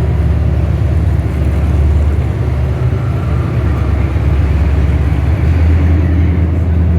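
A car engine running at idle nearby: a deep, steady rumble that swells a little near the end.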